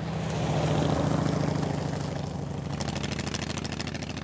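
1951 Allard K-2's Mercury flathead V8 running on the road with a steady low exhaust note, growing louder about a second in and then easing off.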